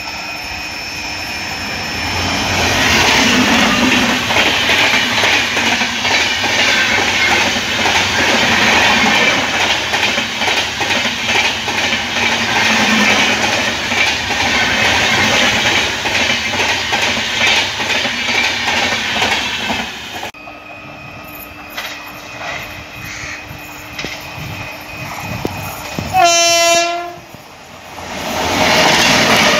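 An Indian Railways train of LHB coaches passes close by at speed, with loud rushing noise and wheels clattering over the rail joints. After a cut comes a quieter rumble of a second electric-locomotive-hauled train approaching. Near the end it gives one short horn blast, and its noise grows as it nears.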